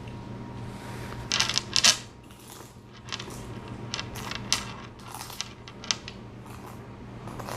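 Crunching bites into a crispy fried chicken flauta: a loud crackly crunch about one and a half seconds in, then smaller crunches and clicks while chewing.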